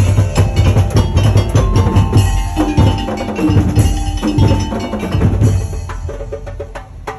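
Madurese daol dug-dug ensemble playing loudly. Big drums pound out a fast, dense rhythm with deep booms under it, and a few held melodic notes sound over the top.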